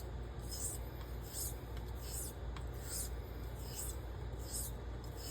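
Carbon-steel straight razor honed on the blue Coticule (4000 grit) side of a combo stone: a short hissy scrape on each stroke, about one every 0.7 seconds.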